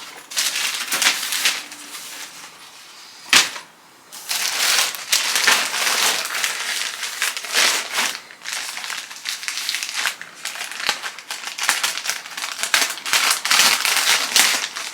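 Packaging crinkling and rustling as items are handled and unwrapped by hand, with a single sharp click about three and a half seconds in.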